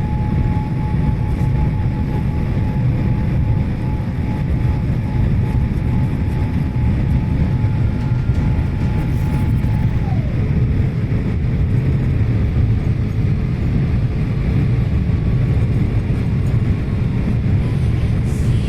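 Airliner cabin noise in flight: a loud, steady roar of engines and airflow, deepest in the low end. A faint high tone in it drops in pitch about halfway through and holds at the lower note.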